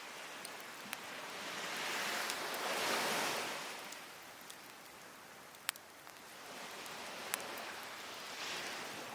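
Sea waves washing up on a beach: one surge of surf builds to a peak about three seconds in and draws back, and a smaller one comes near the end. A few sharp pops from a burning cedar and oak wood fire stand out over the surf.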